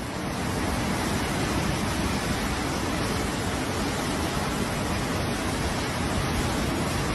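Rushing floodwater: a loud, steady roar of water.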